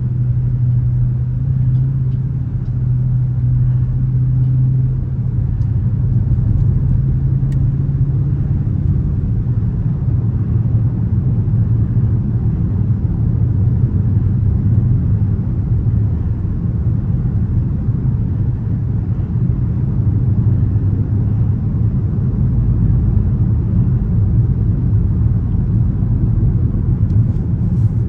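Dodge Charger R/T's 5.7-litre HEMI V8 droning steadily at a cruise, with road rumble underneath; the engine note settles slightly lower about nine seconds in.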